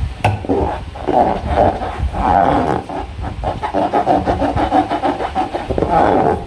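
Slime being squished and worked by hand: a continuous run of wet crackling and squelching with small air pops and a few sharp clicks.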